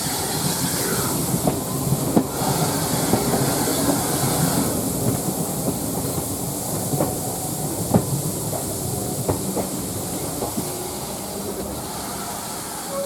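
Railway carriage running along the track behind a steam locomotive, with wheels clicking irregularly over rail joints over a steady rumble. A high hiss fades about five seconds in, and the running gets a little quieter toward the end.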